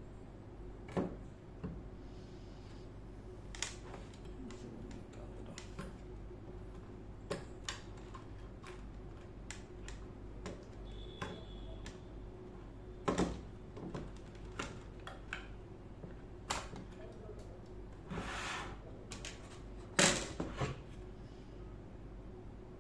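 Scattered clicks and knocks of hands handling the metal case and internal parts of a fanless industrial PC during disassembly. There is a short scraping rustle a little before the loudest knock, which comes near the end.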